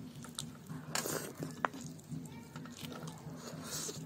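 Eating chicken curry and rice by hand: chewing with wet mouth smacks and clicks, one sharper click about a second and a half in, over a low steady hum.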